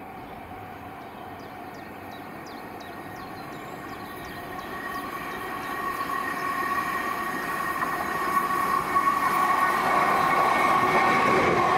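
A passenger train approaching on the main line, its sound building steadily louder with a steady whine. A run of short high chirps in the first few seconds.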